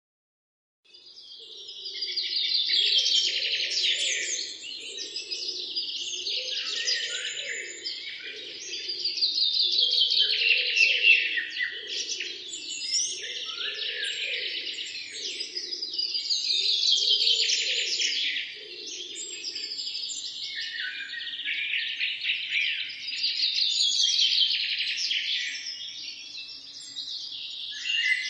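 A dense chorus of songbirds chirping and singing over one another, starting about a second in and swelling and fading every few seconds. A lower, repeated call sounds underneath until about two-thirds of the way through.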